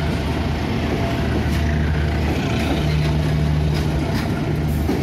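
KA Singasari passenger train's coaches rolling past at close range, a steady low hum running under the rumble of the wheels, with a few faint clacks of wheels over the rail joints.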